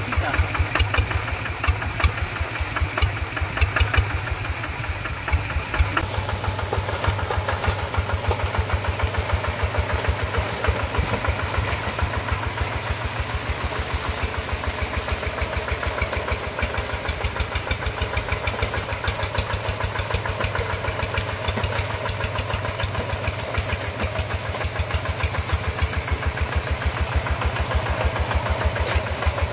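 Single-cylinder diesel engine of a two-wheel hand tractor running steadily with a rapid, even chugging beat. The tone of the upper noise changes about six seconds in.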